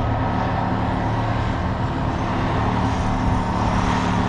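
Engine of a large construction machine running steadily, a low, even drone of one pitch.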